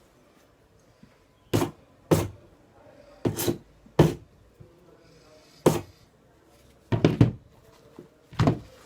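Stick welding electrode tapped against the work to strike an arc, giving short crackling snaps about eight times. It never settles into a steady arc.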